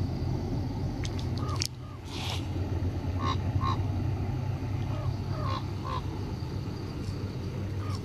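A bird calling outdoors in short clipped notes, mostly in pairs, every second or so from about three seconds in, over a steady low hum.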